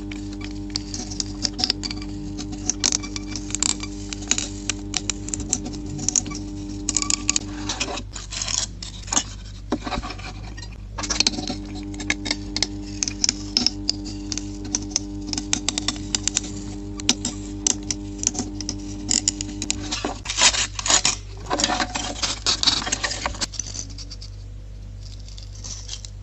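Many small clicks, taps and light scrapes in quick irregular succession over a steady hum. The hum drops out for about three seconds around eight seconds in and stops again from about twenty seconds in, while the clicking carries on.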